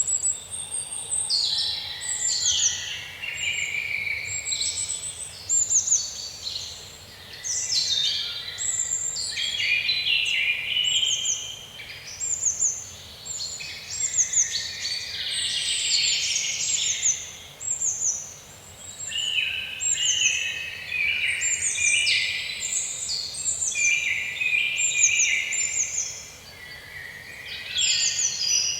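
Several songbirds singing at once: a continuous chorus of quick, high chirps and short falling trills, with a faint steady hiss beneath.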